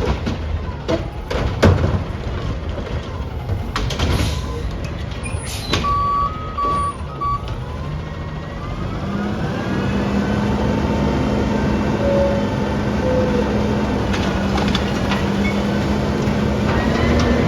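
Recycling garbage truck at work: sharp clanks and bangs, a few short high beeps, then the truck's engine rises in pitch about eight seconds in and holds a steady higher drone.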